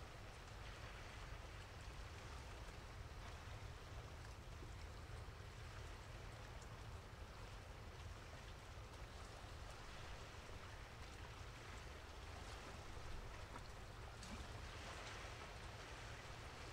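Faint, steady outdoor ambience of light rain: an even hiss with scattered small ticks, over a low rumble.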